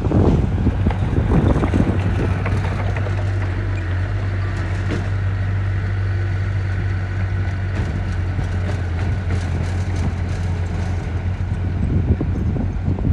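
Diesel engine of heavy construction machinery running steadily with a low drone, rougher and noisier in the first couple of seconds and again near the end.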